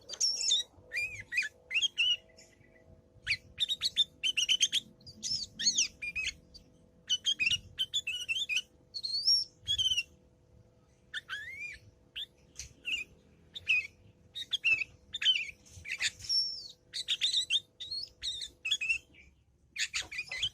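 Sooty-headed bulbul (kutilang) chattering: quick bursts of chirps and short whistled glides, repeated with brief pauses, the lively 'ngriwik' chatter.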